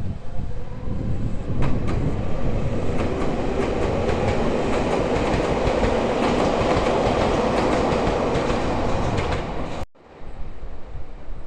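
Shintetsu electric train running past, its wheels clicking over the rail joints, with wind rumbling on the microphone. The train sound cuts off abruptly near the end.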